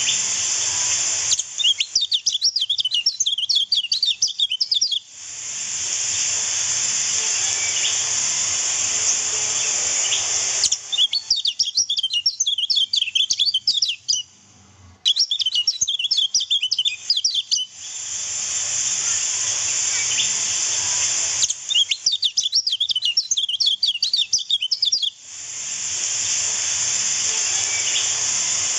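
Kecial kuning (a white-eye) singing four bursts of fast, high twittering chirps a few seconds each. Between the bursts a steady high hiss fills the gaps and cuts off abruptly each time the song comes in.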